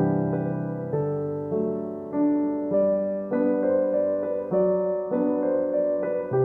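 Background piano music: a slow, gentle melody of sustained notes changing about every half second to a second.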